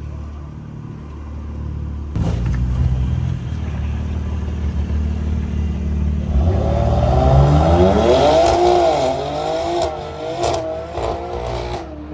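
A car engine idling, then revved hard about two seconds in. Its pitch climbs steeply from about six seconds and wavers at high revs before dropping off near the end.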